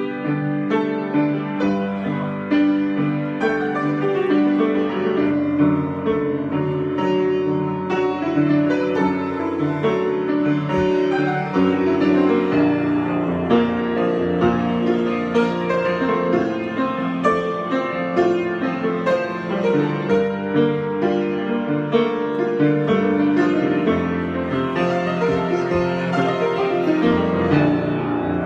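Piano playing an improvisation: continuous sustained chords under a moving melody, with notes held and overlapping throughout.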